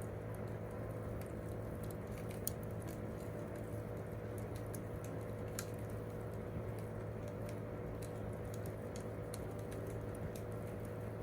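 Wood campfire crackling: irregular sharp pops and snaps, a few louder ones, over a steady low rush.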